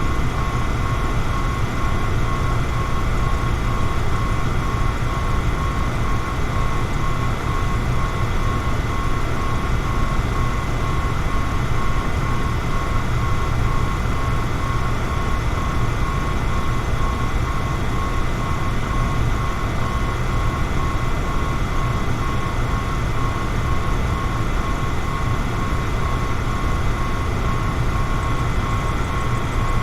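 Electric fan running steadily: an even rush of air over a low motor hum, with a thin, quickly pulsing whine above it.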